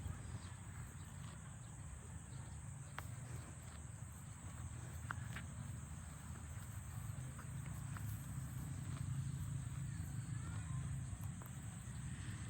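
Steady high-pitched insect chirring over a low rumble, with a few faint clicks.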